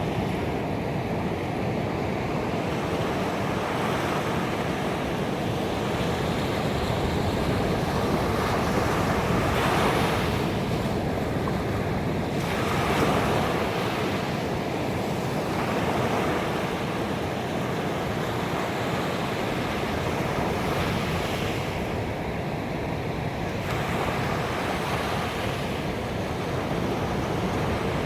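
Ocean waves breaking on a beach: a continuous rush of surf, with a wave swelling and breaking every few seconds.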